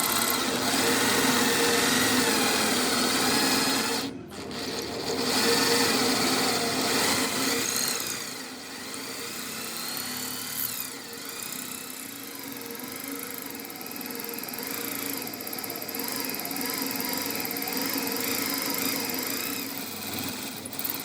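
A power tool running continuously, cutting out briefly about four seconds in and running quieter from about eight seconds on.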